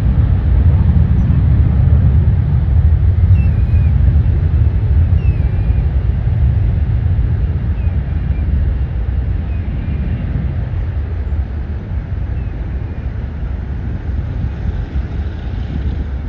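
Low rumble of a jet airliner's engines, fading slowly as the aircraft moves away.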